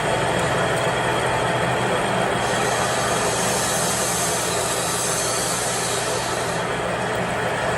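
A machine running steadily with a low hum, joined by a hiss from about two and a half seconds in that stops about four seconds later.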